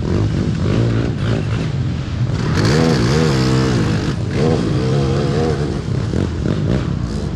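Race quad (ATV) engine revving, its pitch rising and falling again and again, loudest a few seconds in.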